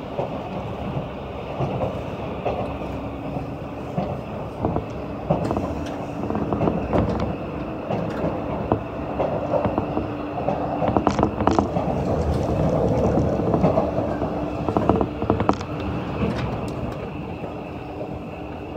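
Running noise of a 185 series electric train heard from inside the passenger car: a steady rumble of wheels on rail with a steady hum, and scattered sharp clacks as the wheels cross rail joints and points. It grows louder for a few seconds past the middle.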